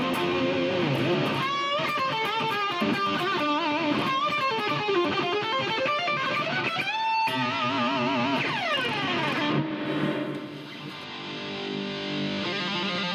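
High-gain electric guitar through a Yamaha THR10X modelling amp on its Brown 2 amp model, playing fast metal lead riffs. Quick runs climb to a held note with wide vibrato, then a falling slide, and sustained notes ring near the end.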